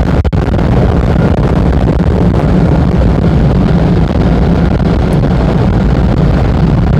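Automatic car wash drying blowers running, a loud steady rush of air against the car, heard from inside the cabin.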